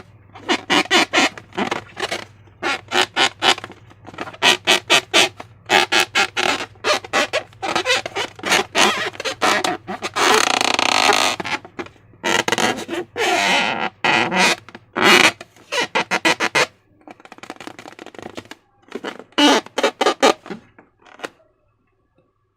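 Slime and rubber balloons being squeezed and handled: quick runs of wet squelches and squeaks, with one longer unbroken squelch about ten seconds in.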